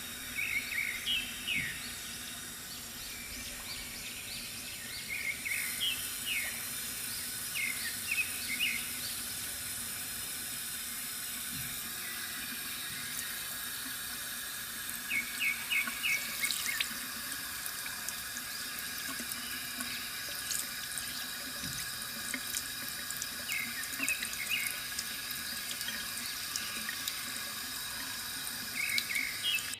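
Water trickling steadily from a bamboo fountain, with small birds chirping in short quick runs every few seconds.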